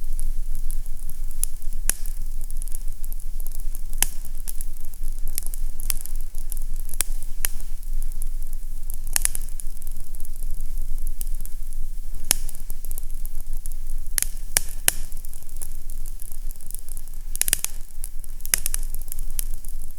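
Fireplace fire crackling with irregular sharp pops, some in quick clusters, over a steady low rumble.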